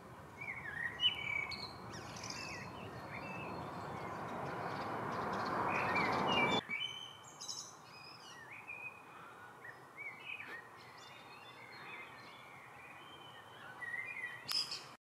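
Small birds chirping and singing in a garden, many short calls with quick pitch slides. A rushing noise under them swells over the first several seconds and cuts off abruptly about six and a half seconds in.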